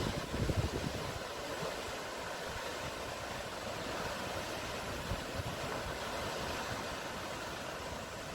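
Sea surf washing steadily, with wind buffeting the microphone in low gusts, strongest in the first second.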